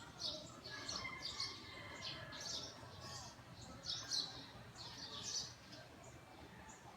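Small birds chirping: a run of a dozen or so short, high chirps at irregular spacing, faint over a low background hum.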